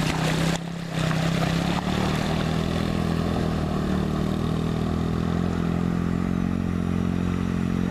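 Yamaha TTR-110 pit bike's small single-cylinder four-stroke engine running at a steady, held speed, dipping briefly about half a second in before it picks up again.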